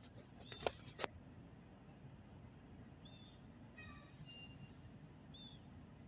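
Three sharp clicks from the camera being handled in the first second, then several faint, short, high bird chirps, some sliding down in pitch, over a steady low outdoor background.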